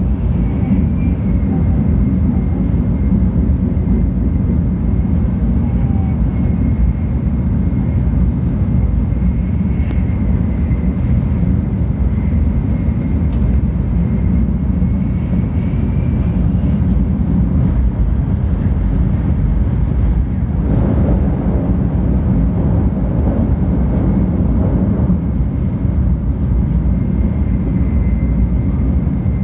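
700 series Tokaido Shinkansen running at speed, heard from inside the passenger cabin: a steady low rumble with a faint high whine over it. About two-thirds of the way through, a louder rushing noise swells for a few seconds and then settles back.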